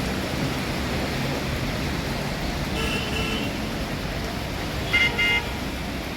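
Road traffic noise with a vehicle horn tooting: a faint double toot about three seconds in and a louder double toot about five seconds in.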